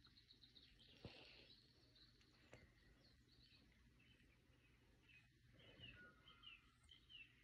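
Near silence with faint, high bird chirps in the background, a short run of quick notes repeating about twice a second in the second half, and a couple of soft clicks.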